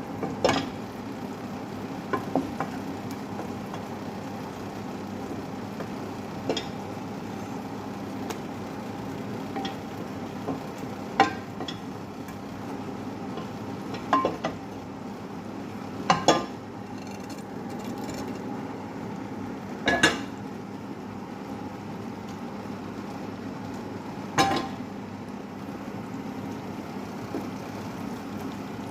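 Cooking in a pan on the stove: a utensil knocks and clinks against the pan about eight times, at irregular intervals, over a steady hum.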